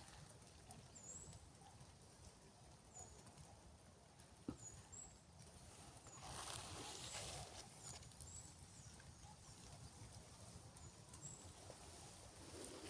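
Quiet forest ambience with faint, very high, thin bird calls repeated every second or so. There is a single sharp knock about four and a half seconds in, and a brief burst of rustling noise about six seconds in.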